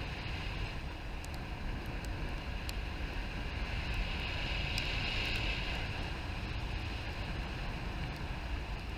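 Wind rushing over the microphone in flight, a steady noise that swells about halfway through, with a few faint scattered clicks.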